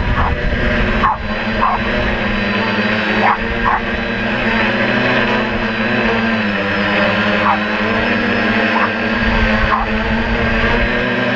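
DJI F450 quadcopter's electric motors and propellers humming steadily, their pitch dipping briefly about halfway through, with wind rumbling on the microphone. Short high-pitched chirps come through several times.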